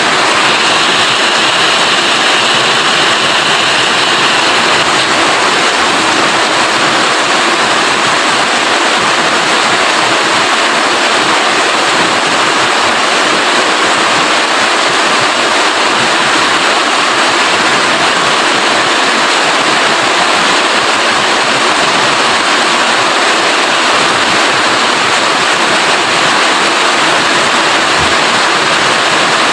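Steady, heavy rainfall: an even, unbroken hiss of rain.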